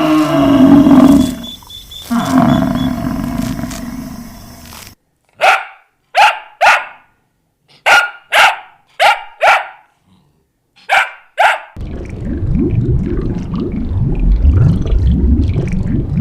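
Animal calls in three parts: a loud drawn-out call for about five seconds, then about nine short, sharp dog barks, mostly in quick pairs, then a dense low rumble from about twelve seconds in.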